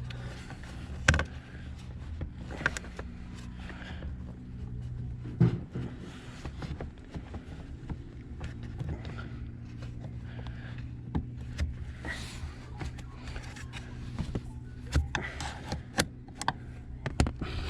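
Scattered clicks and knocks of hands fitting gear-shift cables and their clips to a car's shifter, over a steady low hum.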